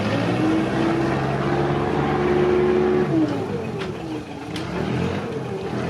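An engine running steadily, its pitch falling about three seconds in, then dipping and rising again, with two brief clicks near the end.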